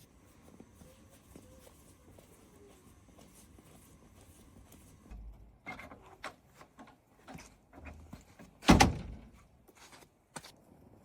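A few quiet seconds, then a run of scattered knocks and clatters, with one loud thump late on.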